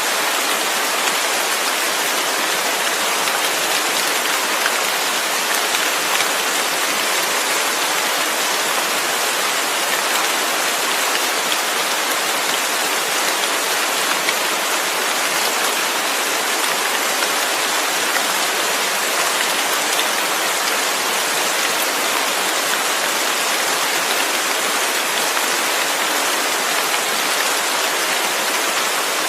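Steady rain, a constant even hiss with faint scattered drops.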